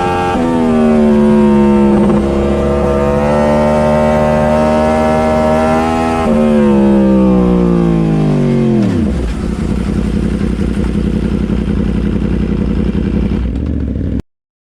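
Motorcycle engine running at steady revs, rising briefly about six seconds in, then falling steeply away until it settles into a low rumble. The sound cuts off abruptly near the end.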